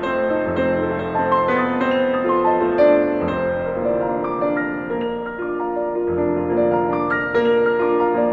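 Background piano music: a slow melody of sustained notes over changing bass notes.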